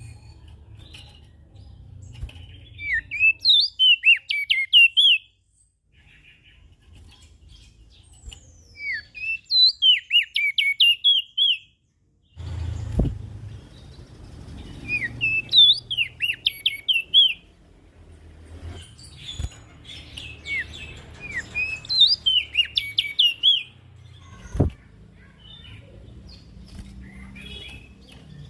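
Prenjak daun singing in four bursts of rapid, twittering notes, each phrase lasting two to three seconds with short pauses between, over a faint low hum.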